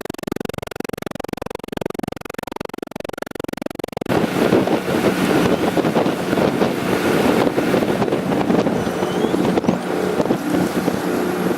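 Music for about four seconds, then a sudden cut to wind buffeting the microphone over the steady running of a boat underway. Near the end a steady hum with a thin high whine joins in.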